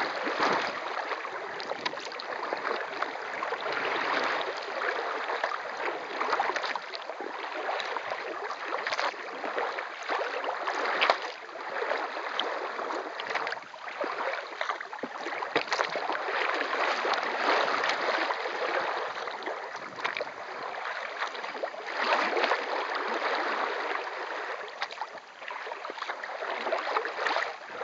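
Water splashing and sloshing around a kayak under way on a lake, swelling and fading with the paddling.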